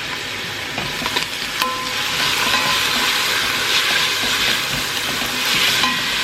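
Onions sizzling as they fry in oil in a pan, with a few sharp clicks of a utensil stirring them early in the first two seconds. The sizzle grows louder about two seconds in and stays steady.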